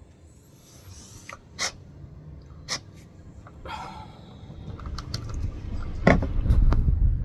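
A series of sharp mechanical clicks and knocks, with a low rumble building from about the middle and a louder knock near the end.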